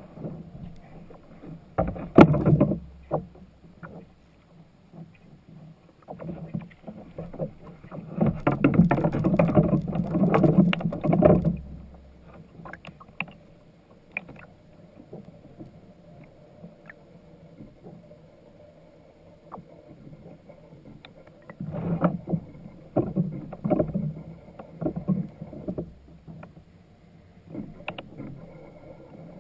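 Water splashing and sloshing against a fishing kayak, with scattered knocks on the hull, coming in three louder bouts with quieter stretches between.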